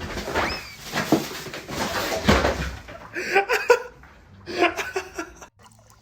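Rustling with a few sharp knocks, then a person laughing in short bursts that stop abruptly.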